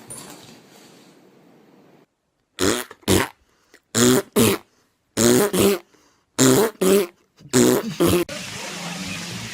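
Five pairs of short, cough-like vocal sounds, the two in each pair about half a second apart, with pauses between the pairs. A steady hiss comes in near the end.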